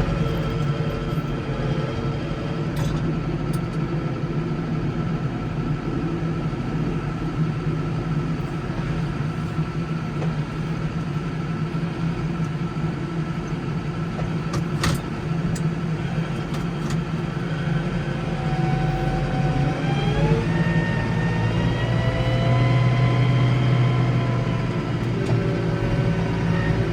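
Case 115U garden tractor engine running steadily under load, its pitch rising about twenty seconds in as it revs up, then holding higher.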